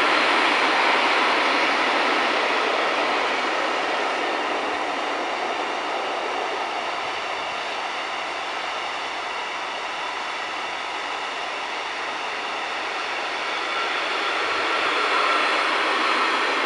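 Container wagons of an intermodal freight train rolling past on the rails: a steady rolling noise of wheels on track, easing a little in the middle and growing louder again near the end.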